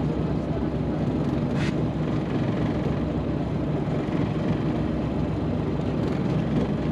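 Steady drone of a fishing boat's engine running, with a brief faint rustle about a second and a half in.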